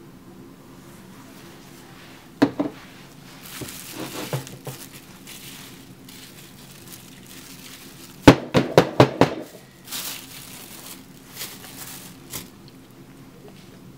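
Handling noises from soapmaking work: a couple of sharp knocks about two and a half seconds in, crinkling and rustling, then a quick run of about six sharp knocks a little after the middle, over a faint steady hum.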